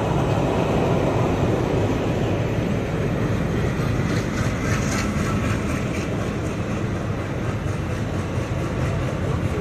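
A WDM-3D diesel locomotive running past at close range, its ALCo diesel engine at work, then the passenger coaches rolling by. Over a steady rumble, a regular clicking of the wheels runs from about four seconds in.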